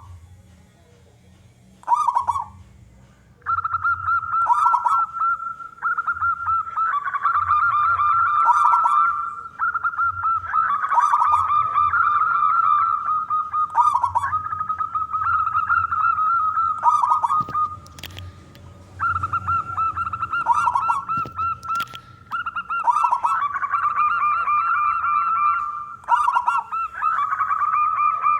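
Zebra dove (perkutut) cooing again and again in long trilled phrases at a steady pitch, broken by short pauses.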